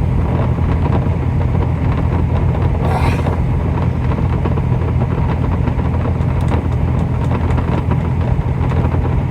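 A semi truck's diesel engine idling with a steady low hum, heard from inside the cab. Faint scrapes come from a spoon pressing thick sauce through a strainer.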